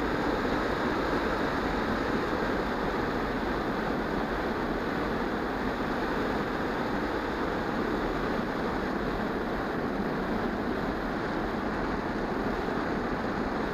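Steady rushing wind noise from air streaming past the microphone of a camera carried aloft on an EasyStar 2 radio-controlled model plane.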